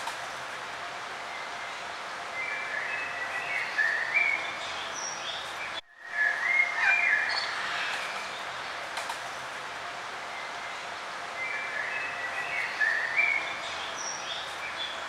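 Several birds singing and chirping in short phrases over a steady outdoor hiss. The sound drops out for a moment about six seconds in, then the calls come back loudest.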